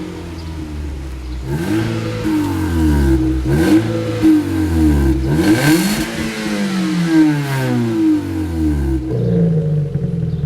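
Turbocharged Hyundai car engine revving. Its pitch climbs and drops several times, then falls away steadily over the last few seconds.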